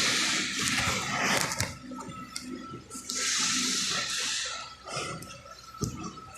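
Repeated bursts of hissing, each lasting about a second, with scattered clicks and knocks in between.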